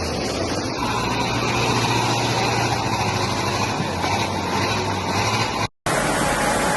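A motor running steadily, a low hum under a rushing noise. It cuts off abruptly near six seconds in, and only the rushing noise follows.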